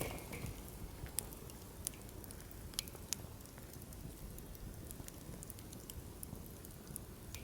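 Firewood burning in a campfire: a steady low rush of flame with scattered sharp crackles and pops, the loudest few between one and three seconds in.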